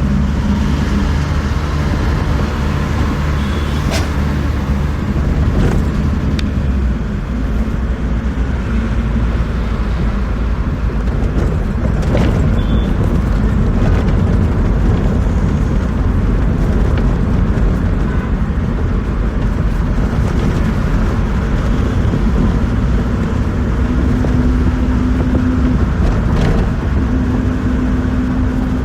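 Moving bus heard from inside the cabin: a steady low rumble of engine and road noise, with a few sharp clicks or rattles and a steady engine hum showing up near the end.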